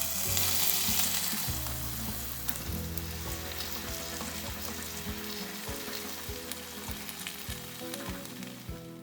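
Food sizzling in a hot pan, with scattered small pops. The sizzle slowly fades and stops abruptly at the very end.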